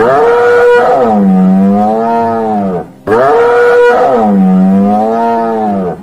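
An animal's long, drawn-out pitched call, heard twice in a row. Each call lasts about three seconds, starts higher, drops in pitch, then wavers.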